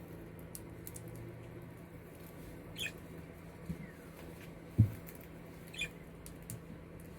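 Budgerigar giving two short, high chirps about three seconds apart, with faint scattered clicks and one dull thump between the chirps as the loudest sound.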